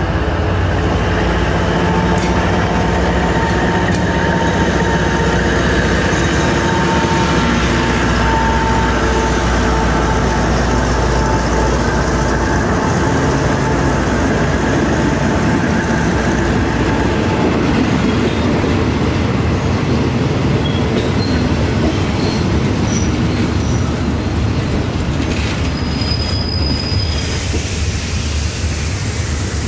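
Passenger carriages of a departing diesel-hauled train rolling past at low speed, with a steady rumble and rattle of steel wheels on the rails. A thin steady whine fades out about halfway through.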